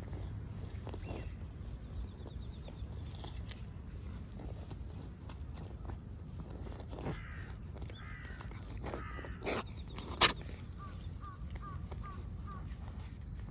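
A crow cawing three times, followed by a sharp click, the loudest sound, and then a quick run of five short chirps near the end, over a steady low outdoor rumble.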